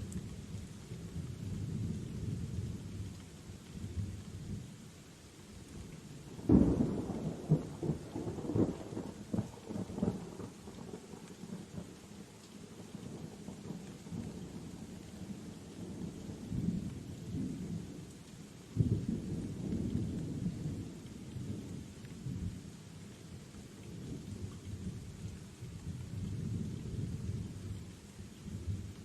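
Steady rain with rolling thunder. A sharp thunderclap about six seconds in rumbles on for several seconds, and another roll of thunder starts about two-thirds of the way through.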